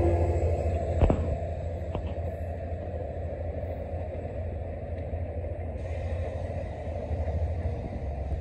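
Train rumbling as it moves away, loudest at the start and fading, with a sharp click about a second in and a fainter one about a second later.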